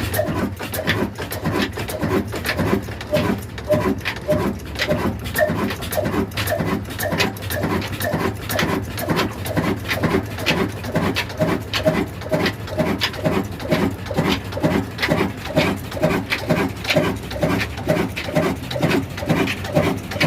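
Old single-cylinder desi diesel engine of the Ruston type running steadily under load, driving a flour mill, with an even slow beat of roughly three pulses a second.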